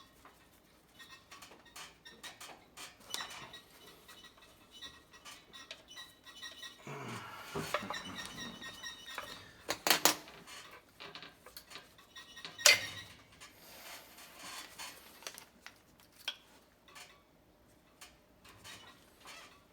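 Metal parts clinking, scraping and knocking as a B&G Series 100 circulator pump's bearing assembly and motor are handled and worked into position, with two sharp metallic knocks about halfway through.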